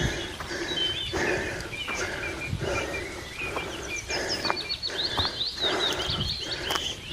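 A hiker breathing hard in quick, regular breaths while climbing a steep mountain path on foot. Small birds chirp throughout, in a rapid series in the second half.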